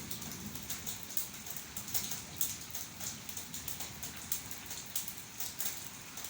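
Rain falling steadily, with a dense patter of individual drops striking a surface.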